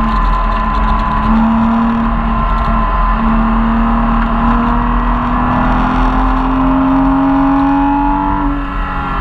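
Porsche Cayman S mid-mounted flat-six engine heard from inside the cabin, pulling under load on track, with tyre and road noise beneath it. The engine note climbs slowly, then drops suddenly shortly before the end.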